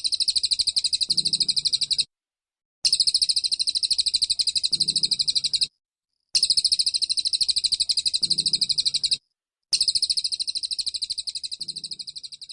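A songbird's rapid-fire 'tembakan' trill of sharp high notes, very fast and even, in four bouts of about three seconds with short silent gaps between them; the last bout fades out.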